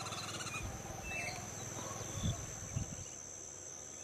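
Steady high-pitched insect trill, with a short bird chirp about a second in.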